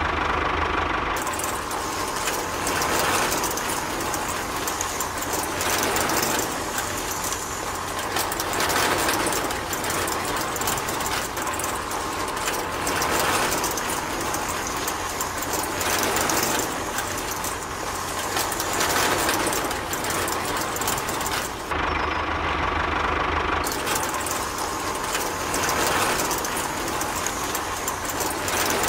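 Small motor of a model concrete mixer truck running, with a steady rattling clatter as its drum turns and black grit pours down the chute. The clatter swells about every three seconds.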